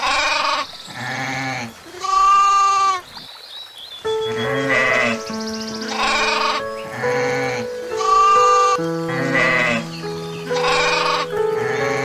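Goat bleating over and over, about one call a second with a short pause near the middle, over background music whose held notes come in about four seconds in.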